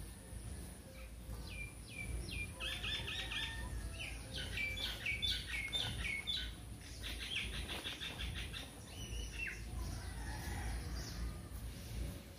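Small birds chirping in quick runs of short, high, downward-slurred notes, busiest from about two seconds in until near the end, over a low outdoor rumble.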